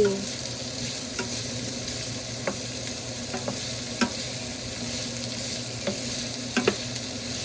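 Diced onions sizzling in a frying pan as they are stirred with a wooden spatula, which knocks lightly against the pan a few times.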